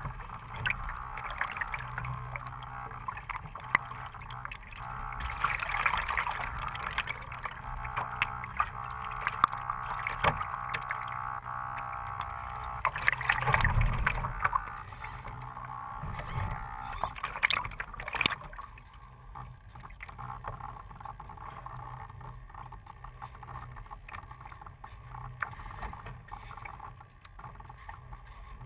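Strong wind buffeting the microphone in gusts, with scattered small clicks and a steady whine over the first half; it all eases after about 18 seconds.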